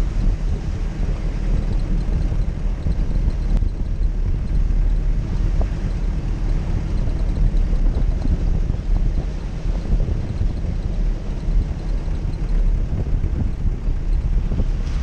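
Off-road vehicle engine running steadily under a heavy low rumble of wind buffeting the microphone.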